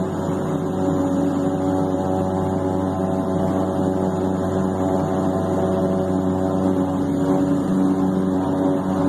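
King Air B200's Pratt & Whitney PT6A-42 turboprop engines running during the start of engine number one, with engine number two already running. It makes a steady hum with several fixed tones.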